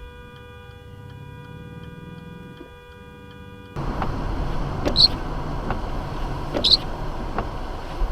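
Faint regular ticking, then an abrupt switch to steady vehicle road noise broken by three sharp knocks or squeaks about a second and a half apart.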